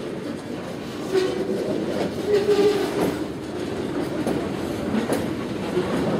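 ALCO diesel locomotives running with a freight train, a steady engine rumble with wheels clicking over rail joints several times.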